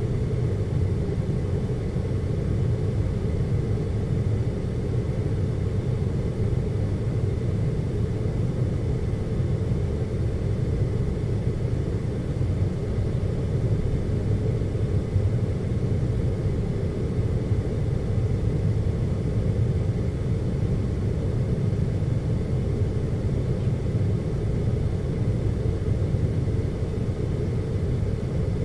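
Air conditioner running with a steady low hum and a faint thin whine above it, unchanging throughout.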